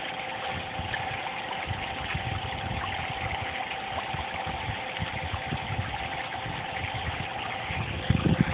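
Steady splashing of water falling into a koi pond from its pump-fed fountain, with a faint steady hum under it. A louder low rumble comes in near the end.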